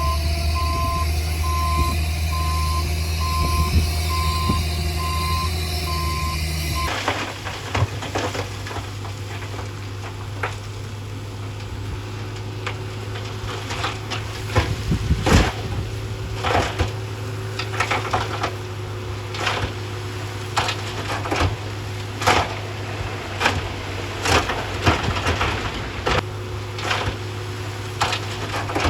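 Heavy diesel construction machinery running, with a reversing alarm beeping at an even rate. About seven seconds in, the sound cuts to another engine running steadily under a string of irregular knocks and cracks.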